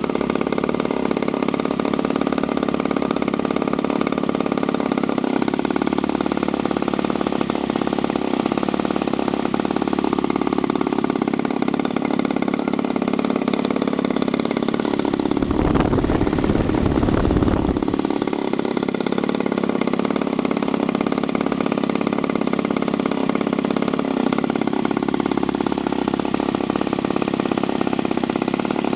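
SV 26cc single-cylinder two-stroke gasoline model-aircraft engine running steadily at high speed, turning a 17x8 propeller at about 6700 rpm. About halfway through, a low buffeting rumble lasts for roughly two seconds.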